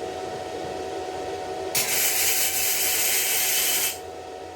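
Electric welding arc laying a short bead of about two seconds, a loud, even crackling hiss that starts and cuts off suddenly as the weld on the hooks is finished.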